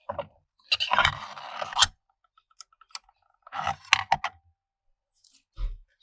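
Metal parts of a BTR four-speed automatic transmission scraping and clinking as the output shaft is pulled through the case: two scraping bursts of about a second each with sharp clicks, then a dull knock near the end.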